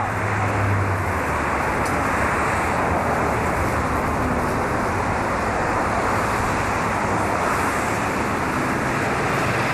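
Steady rushing noise with a low hum underneath, like a moving vehicle heard from inside.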